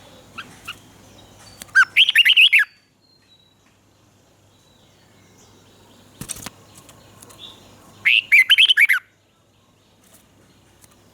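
Red-whiskered bulbul singing two short, loud phrases of quick, warbling whistled notes, about six seconds apart. A single sharp click falls between them.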